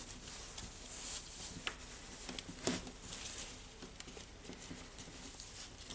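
Faint clicks and light scraping of small metal parts being handled as a washer and circlip go onto a pressed-down spring in a Makita DHR202 rotary hammer's gear housing, with a couple of sharper ticks.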